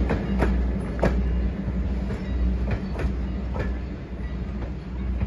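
Passenger coaches at the tail of a steam-hauled train rolling away over the track, their steel wheels clicking over rail joints every so often above a steady low rumble.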